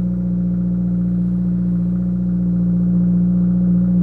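2022 Subaru WRX's turbocharged 2.4-litre flat-four running at a steady fast idle just after a cold start, pretty loud through its Remark axle-back exhaust, heard through the open car door.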